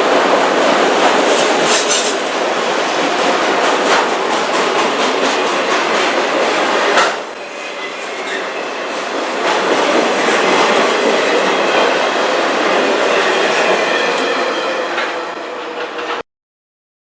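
Freight train of autorack cars rolling past, steel wheels clicking steadily over rail joints. The sound dips briefly about halfway through and cuts off abruptly near the end.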